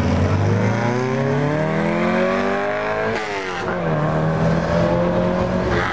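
A classic car's engine accelerating away, its pitch rising steadily for about two and a half seconds, then dropping sharply about three seconds in at a gear change or lift-off. A lower, steady engine note from another car follows.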